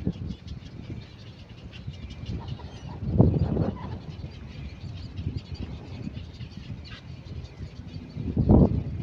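Great cormorants calling: low, harsh croaks, loudest about three seconds in and again near the end, with softer calling between.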